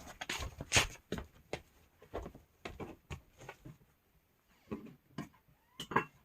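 Irregular light taps and clicks, several a second at first, thinning out about halfway through and returning briefly near the end.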